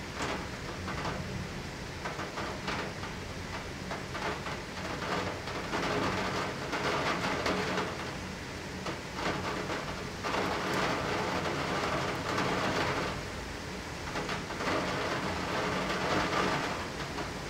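Heavy rain heard through a closed window, with many small ticks of drops hitting the glass. It swells and eases in waves several times.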